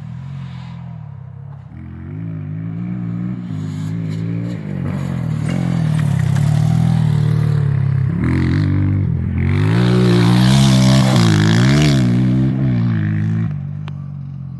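Motocross bike engine being ridden hard, revving up and down over and over as the rider works the throttle, loudest in the second half.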